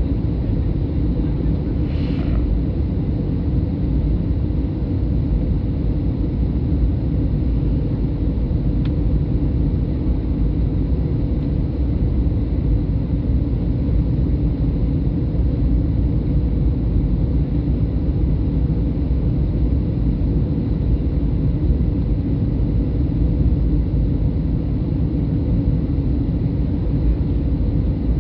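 Steady low rumble of engine and airflow noise inside the cabin of a Boeing 737-800, with a faint steady hum. A brief high-pitched sound comes about two seconds in.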